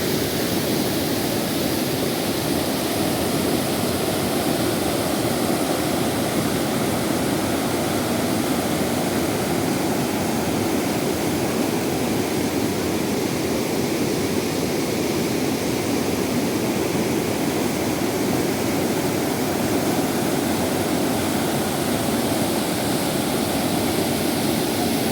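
Steady rushing of a large waterfall, the Narmada River's Dhuandhar Falls, an even, unbroken noise that holds the same level throughout.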